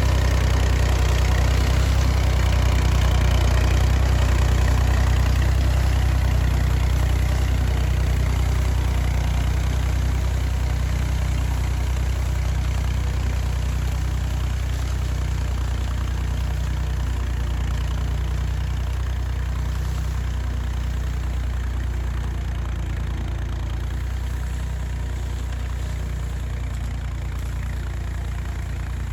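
1978 Massey Ferguson 50X tractor engine idling steadily, slowly fading a little.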